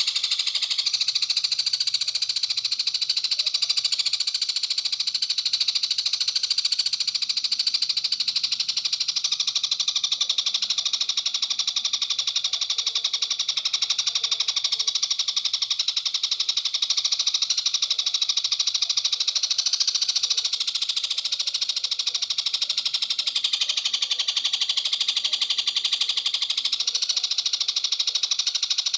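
A dense, continuous, high-pitched rapid trill that runs without pauses and shifts slightly in pitch a few times. It is a masteran tutor-song recording played to teach long-tailed shrikes new calls.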